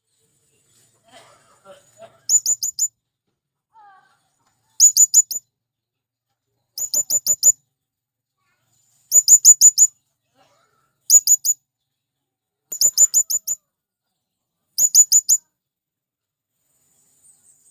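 Male blue-crowned hanging parrot calling: seven bursts of four to six rapid, shrill, very high notes, each burst about half a second long and repeated about every two seconds.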